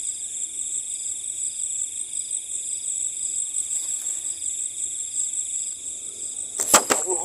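Crickets and other insects chirring steadily in several pitches, one of them pulsing. Two or three sharp clicks or knocks sound near the end.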